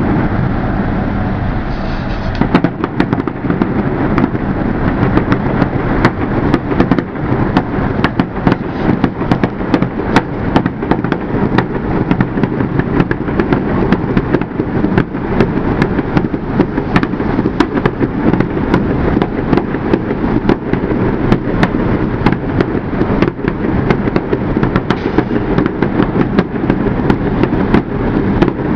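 Fireworks display: a rapid, unbroken barrage of bangs and crackles, many reports a second.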